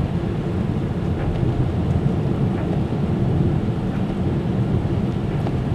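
Steady low rumble of a car driving on a wet road, with tyre and engine noise heard from inside the cabin.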